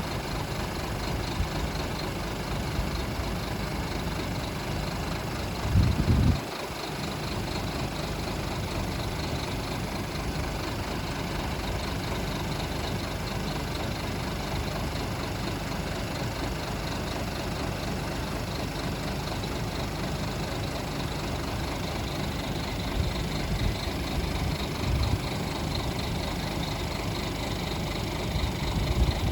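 Scania R480 truck's diesel engine idling steadily, with a brief louder low rumble about six seconds in.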